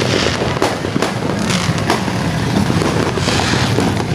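Many firecrackers and fireworks going off at once, a continuous barrage of overlapping bangs and crackles.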